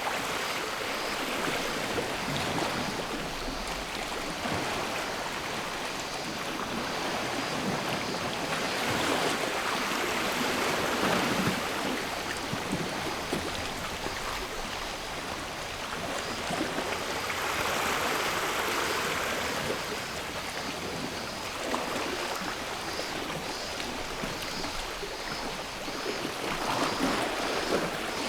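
Sea waves washing in and drawing back, swelling louder three times, with a faint steady cicada chorus behind them.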